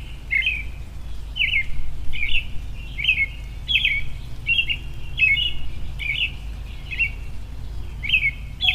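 A bird calling over and over with short, sharp chirps, about one and a half a second, over a steady low rumble.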